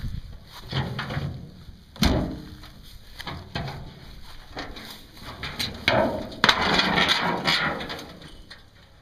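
A few sharp knocks and clunks, then a loud scraping and rustling for about two seconds near the end: something being handled and moved around the car's bodywork.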